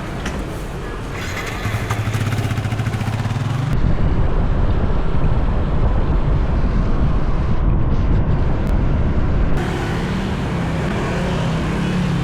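Motor scooter engine running while being ridden, with wind rushing over the microphone. The sound changes abruptly about 4 seconds in and again near 10 seconds, when the wind rumble drops and the engine hum stands out again.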